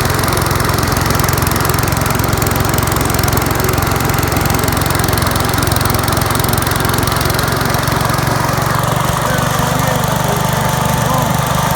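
Gravely garden tractor engine running steadily at a constant speed.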